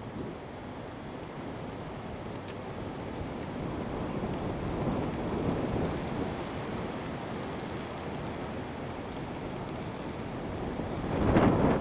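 Wind gusting and rushing over the microphone, swelling and easing, with a stronger gust near the end.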